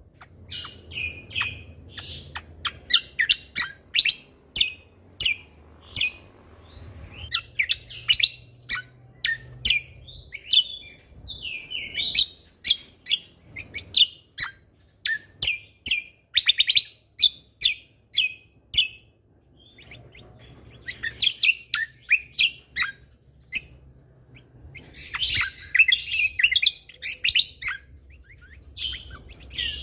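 Cucak kombo (kecial kombo) songbird singing a fast, loud run of short, sharp chirps and whistles, several notes a second, with a brief pause about two-thirds through and a dense burst of chatter near the end. This is the energetic song prized as training audio for other cage birds. A faint low hum lies underneath.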